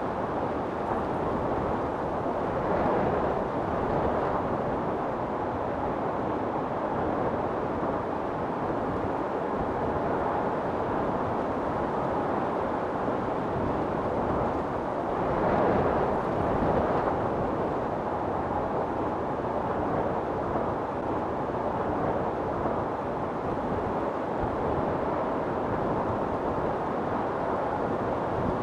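Storm wind blowing steadily, swelling into stronger gusts about three seconds in and again around the middle.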